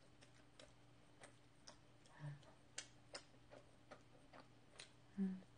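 Faint chewing of sticky rice cake: soft, irregular mouth clicks a couple of times a second. A short closed-mouth 'mm' hum comes about two seconds in, and a louder one near the end.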